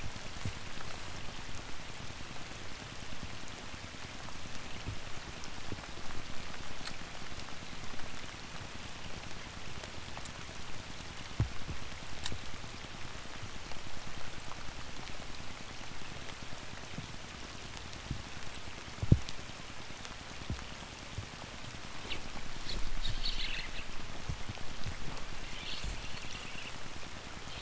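Steady rain falling on the lake water and the boat, with a few dull knocks scattered through.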